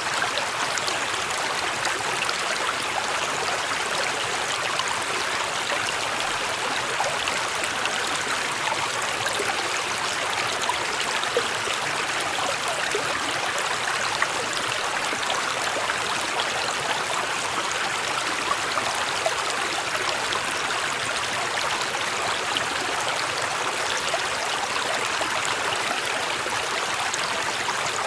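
Small mountain stream flowing over stones, a steady, even babble of running water with small splashes and gurgles.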